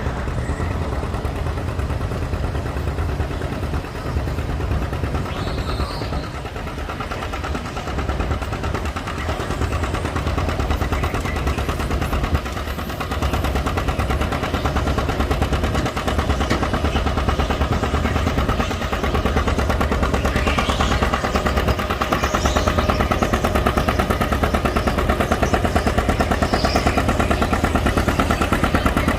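Tractor engine working hard under full load while pulling a weight sled, its exhaust firing in a rapid, even chatter; it gets louder in the second half of the pull.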